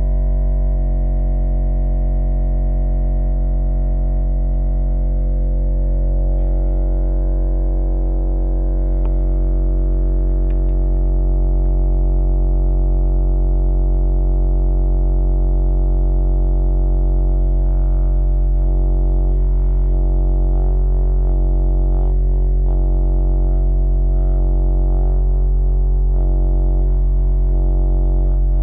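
Edifier R2850DB bookshelf speaker playing a steady, deep, buzzing hum through its bass-reflex port, the kind of extraneous port noise that the uploader traces to the port's fabric mesh.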